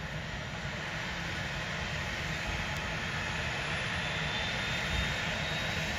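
Rescue helicopter's engine and rotors, a steady noise that grows slowly louder, with a faint rising whine from about two-thirds of the way in.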